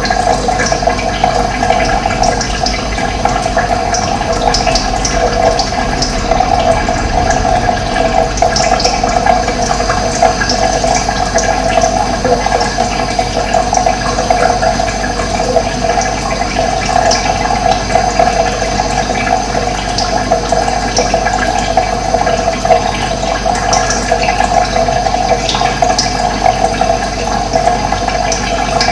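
Running water rushing steadily, with short high chirps of birds scattered through it.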